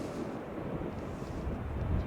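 Low, steady rumble of jet airliner engines, with wind buffeting the microphone.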